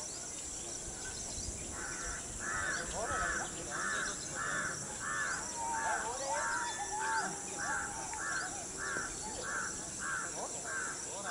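A bird calling over and over in a long, even series of short harsh calls, about two a second, starting about two seconds in, over a steady high buzz of insects.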